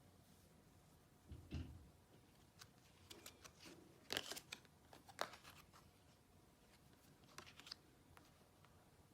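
Quiet handling of tarot cards: a soft low thump about a second and a half in, then scattered light clicks and rustles of cards being moved and laid down, bunched in the middle and again a little later.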